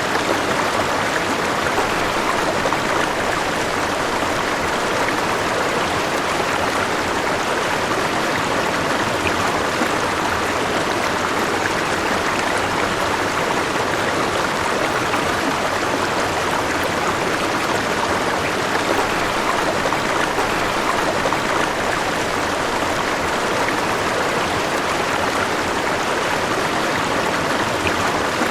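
River water flowing steadily over stones, a continuous even rushing.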